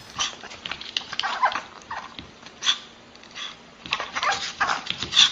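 A dog whining in short, high-pitched cries, over and over.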